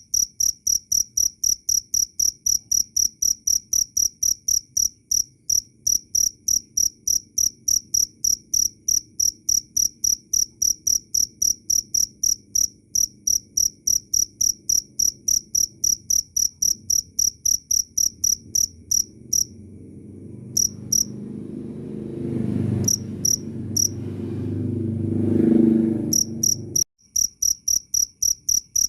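Cricket chirping in a steady, even rhythm of about three high-pitched chirps a second. Past the middle the chirping pauses and a low rumble swells up, growing louder than the chirps, then cuts off suddenly before the chirping starts again.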